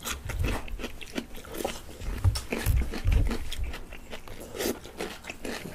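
Close-up chewing and crunching of food, with sharp wet mouth clicks and a few dull low thuds of the jaw.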